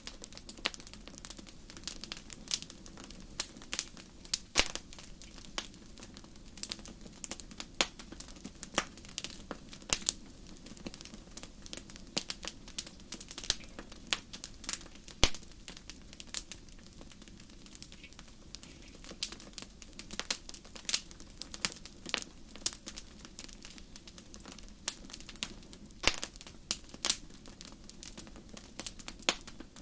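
Wood fire burning in a fireplace: irregular sharp crackles and pops over a low steady hiss of the flames, with a louder pop about halfway through.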